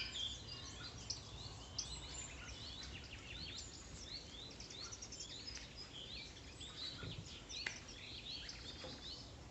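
Faint birdsong: many short, high chirps repeating throughout, with a few soft clicks.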